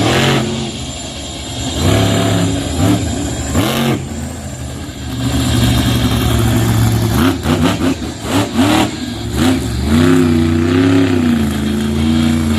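Monster truck engine revving in repeated blips, the pitch sweeping up and falling back, with a steadier held stretch about halfway through.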